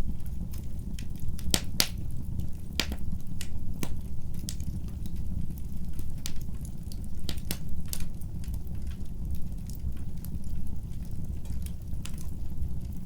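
Wood fire burning in a fireplace: a steady low rumble of the flames with irregular sharp pops and crackles of burning wood, several of them louder snaps.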